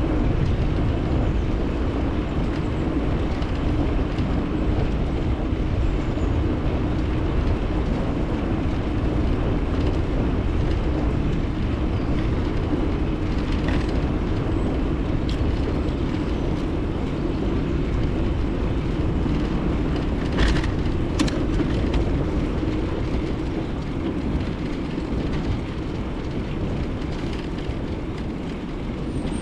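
Steady rush of wind on the microphone and tyre rumble from a bicycle being ridden, mostly a low noise with a faint hum. Two sharp knocks come about twenty seconds in.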